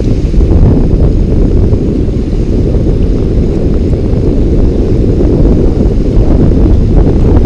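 Strong gusty storm wind buffeting a handheld camera's microphone, a loud, steady low rushing.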